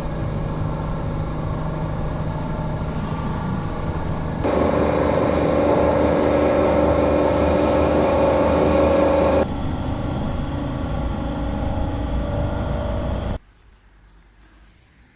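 A road vehicle running steadily with a constant hum, in several abruptly cut segments. Near the end it gives way to a much quieter background.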